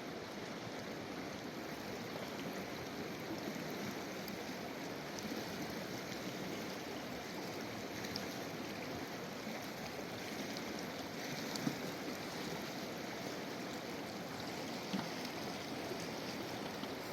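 Steady rush of a fast-flowing mountain river. Two brief knocks, in the middle and later on.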